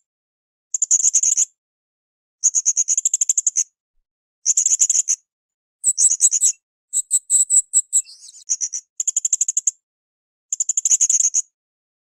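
Blue-crowned hanging parrot (srindit) calling: repeated bursts of rapid, very high-pitched trilled notes, each under about a second, with short gaps between them. About halfway through comes a series of more spaced-out, higher notes.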